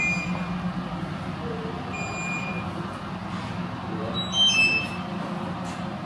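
Car's electronic warning chime: short beeps about two seconds apart, then a quick falling run of tones, over a steady low hum.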